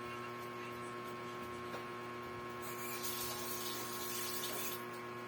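Steady electrical hum, with a rush of hiss lasting about two seconds in the middle.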